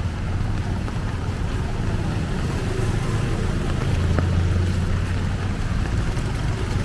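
A motor vehicle engine running in the flooded street, swelling about four seconds in, over the steady wash of flowing floodwater.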